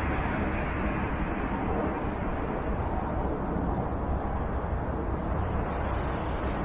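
Steady low rumble with no clear pitch, holding an even level throughout.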